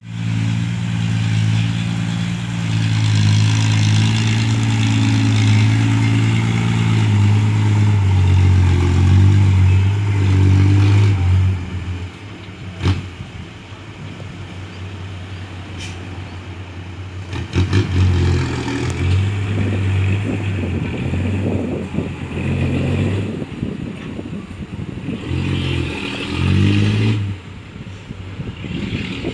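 Heavy construction vehicle's diesel engine running and revving, loudest for about the first eleven seconds, then dropping back with a sharp knock around the middle and further surges in power later on.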